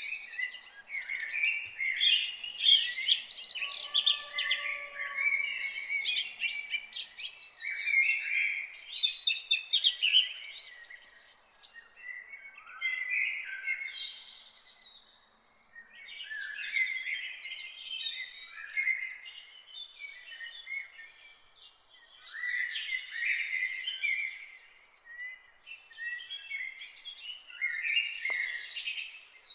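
A chorus of several songbirds chirping and singing over one another, busiest through the first dozen seconds and thinning to scattered phrases after that, over a faint steady hiss.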